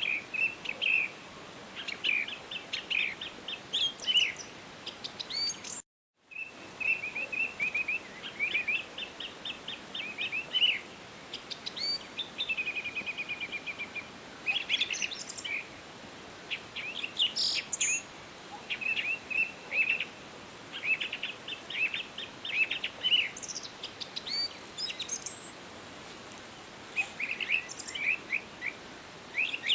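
Songbirds chirping and singing in quick trills and short calls, over a steady faint hiss. The sound cuts out completely for a split second about six seconds in.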